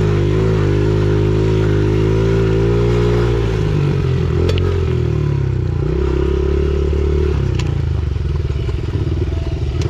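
Small four-stroke single-cylinder pit bike engine running in gear under load on a dirt hill climb. Its pitch holds steady for about three seconds, then drops and rises as the throttle changes, with a few sharp clicks of stones or rattle.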